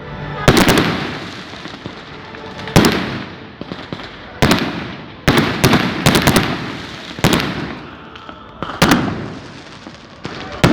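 Firecrackers going off one after another: about ten sharp bangs at irregular intervals, a quick cluster of them in the middle, each followed by an echo that dies away over about a second.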